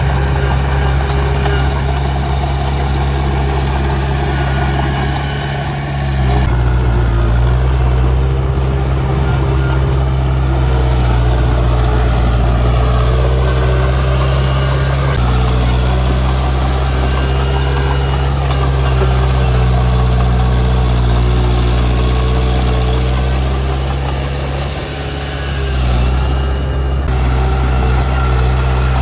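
Heavy diesel engine of earthmoving machinery running steadily, its engine note shifting in pitch a couple of times and dipping briefly about twenty-five seconds in before picking up again.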